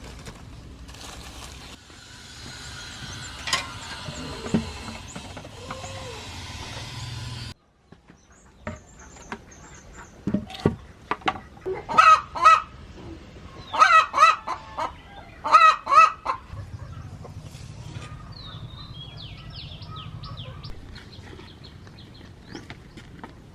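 Farmyard poultry calling: loud honking calls in three clusters about two seconds apart, followed by high, falling chirps. Before them, a steady hiss with a few knocks cuts off suddenly about seven seconds in.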